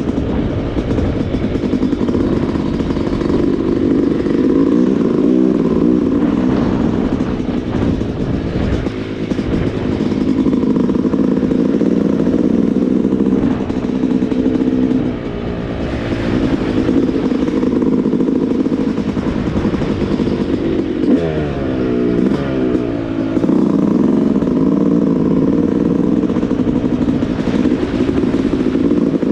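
Yamaha YZ250 two-stroke dirtbike engine running under changing throttle while riding, revs rising and falling throughout, with a quick drop and climb in revs a little past two-thirds of the way through.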